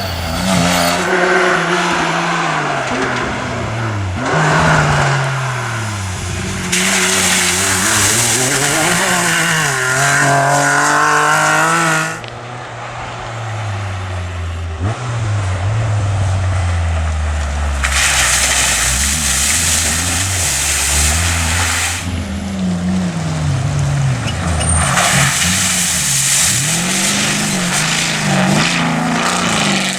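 Rally-raid vehicles' engines running hard, the pitch climbing and dropping again and again through gear changes and throttle lifts as they pass on a baja special stage. There are several stretches of loud rushing noise from the vehicles going by.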